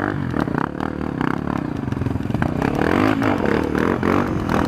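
Trail motorcycle engine revving up and down under load, with clattering and knocks mixed in.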